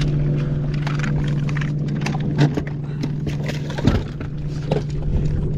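Boat motor running with a steady low hum, with scattered clicks and two louder knocks from gear being handled in the boat.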